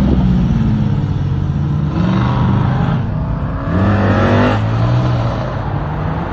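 Car engine revving: its pitch climbs about two seconds in, and again more sharply near four and a half seconds, over a steady engine note.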